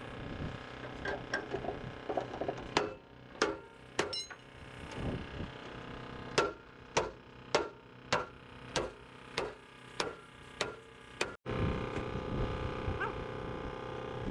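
Hammer blows on metal: scattered knocks, then a steady run of about eight strikes roughly 0.6 s apart. The sound cuts off abruptly near the end and gives way to a steady hum.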